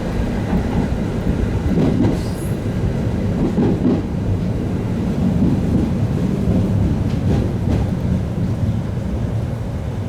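Electric train running along the track: a steady rumble of wheels on rail with a few knocks from the rail joints.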